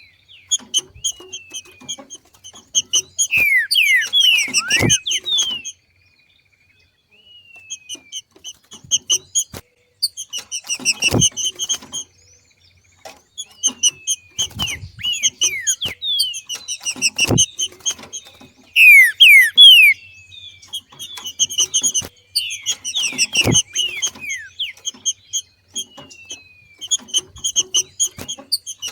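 Green-winged saltator (trinca-ferro) giving its 'macheado' call: bursts of rapid chattering notes mixed with sharp down-slurred whistles, with a short pause about six seconds in. A few soft thumps sound among the calls.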